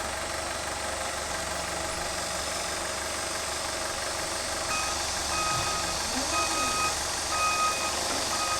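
Steady hum and hiss of factory machinery. About halfway through, a short electronic warning beep starts repeating about once a second.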